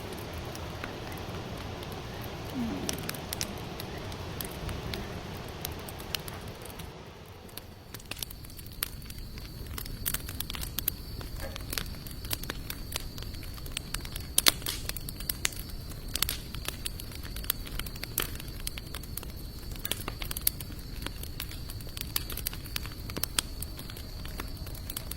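Hardwood campfire burning, crackling with frequent sharp pops. About seven seconds in, the sound changes abruptly from a softer, hissing crackle to denser, sharper crackling, with a faint steady high tone under it.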